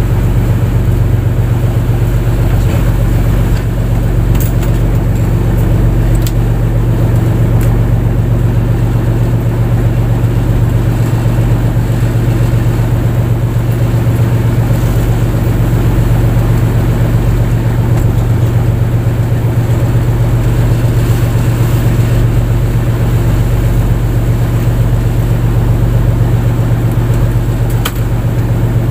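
Fishing boat's engine running at a steady speed: a loud, even, low hum that does not change.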